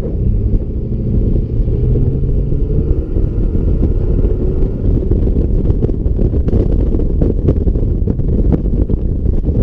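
2006 Ford F-150's exhaust, the engine's deep note rising in pitch over the first few seconds as it pulls, then holding steady.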